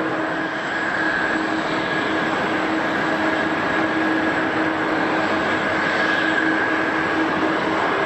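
Jet airliner engines running steadily, a constant rushing roar with a steady whine on top.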